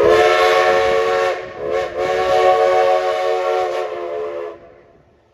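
Steam train's chime whistle sounding a short blast, then a longer one, in a chord of several steady notes.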